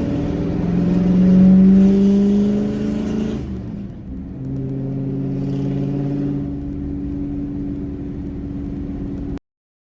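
Pickup truck engine under way, its pitch rising steadily as it accelerates for about three seconds, then dropping and settling into an even drone. The sound cuts off abruptly near the end.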